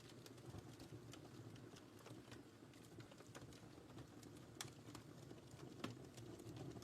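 Quiet crackling of a wood fire in a fireplace: scattered sharp snaps and pops over a soft low rumble of flame, with two louder pops in the second half.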